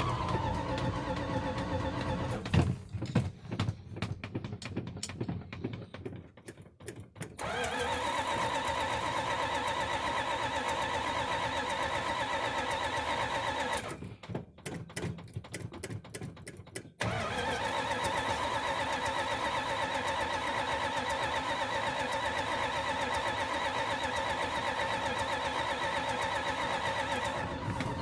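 Small-block V8 running on a cold start. Twice it falters into an uneven stumble for a few seconds, then catches and climbs back to a steady, even run, the struggle of a cold engine.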